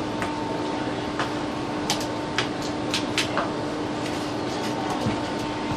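Knife clicking against a cutting board a few times while deboning and trimming the fat from a chicken leg, over a steady electrical hum.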